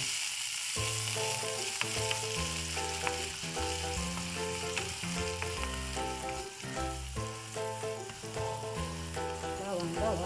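Minced garlic sizzling in hot cooking oil in a frying pan as it is stirred with a plastic spoon. Instrumental background music with notes changing about twice a second plays under the sizzle.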